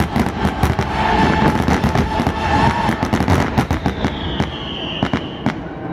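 Fireworks display: a rapid, dense barrage of crackling and bangs, thinning out a little near the end, with a high whistling tone sliding slightly down about four seconds in.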